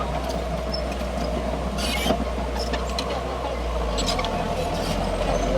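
Crawler bulldozer's diesel engine running steadily under work, with short metallic squeaks and clanks from the running gear. The engine note shifts lower about four seconds in.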